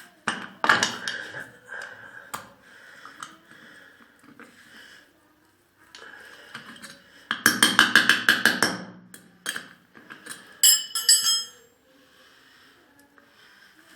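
Hand tools working a tight fastener on a clover mower's engine: scattered metal knocks and clicks, a run of rapid clicking about seven and a half seconds in, and a short ringing metal clink near eleven seconds.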